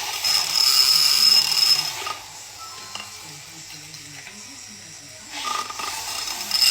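A teaspoon stirring greens powder into a drink in a glass, metal scraping and clinking against the glass in two spells, one near the start and one near the end.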